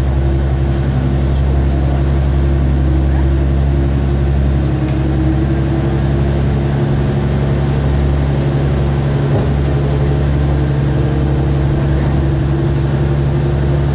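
Diesel railcar under way, heard from inside the passenger cabin: a steady, loud engine drone with rail and running noise. The pitch holds even throughout.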